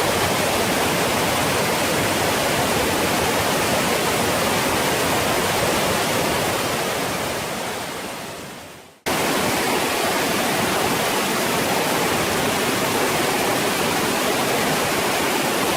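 Waterfall with a steady rush of falling water. It fades down to almost nothing just before nine seconds in, then cuts straight back in at full level.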